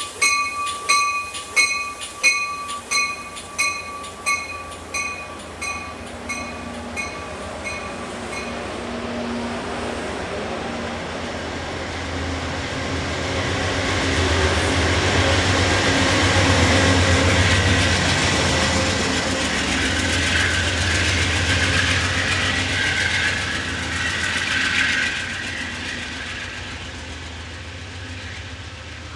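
A bell rings a little under twice a second, dying away over the first eight seconds or so. Then a diesel-hauled passenger train comes through with the low drone of its locomotive and rail noise. It swells to its loudest through the middle and eases off near the end.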